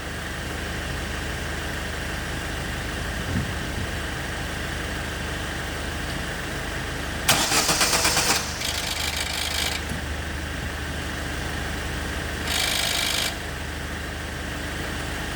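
Opel Zafira's engine idling steadily, with two short bursts of harsh hissing noise, one about halfway through and a shorter one near the end.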